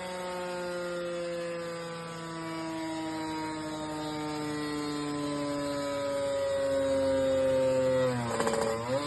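Kawasaki Ninja 150 RR's two-stroke single-cylinder engine, ported and fitted with an HBY titanium racing exhaust, running at high revs on a dyno. Its pitch sags slowly, dips sharply with a brief crackle about eight seconds in, then climbs back.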